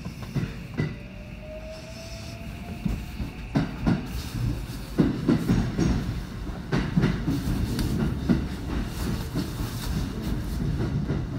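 Electric commuter train pulling away: a faint rising motor whine as it starts, then the wheels clacking and thumping over the points and rail joints, with the clacks coming faster and louder as it gathers speed.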